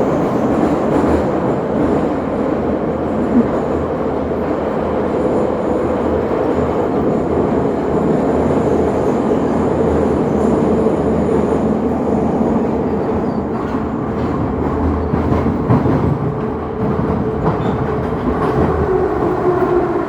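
Train running along the rails: a steady rumble with a hum that slowly falls in pitch over the last few seconds, and a few wheel clicks in the second half.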